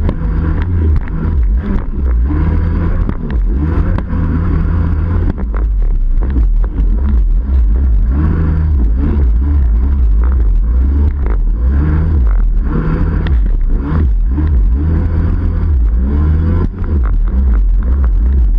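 Yamaha 701 two-stroke twin in a Waveblaster jet ski, fitted with a Riva expansion pipe, running hard with its pitch rising and falling repeatedly as it is throttled up and down.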